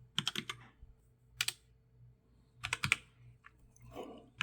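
Typing on a computer keyboard: a few short runs of quick keystrokes with pauses between them.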